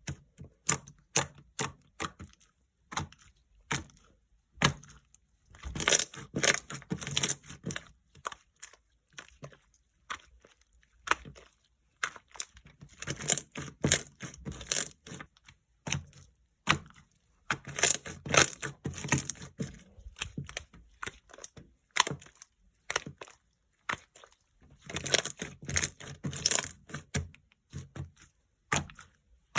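Light-green jiggly slime being squeezed and pressed by hand, giving wet crackling and popping clicks. It comes in bouts of dense crackles a couple of seconds long, with scattered single clicks between.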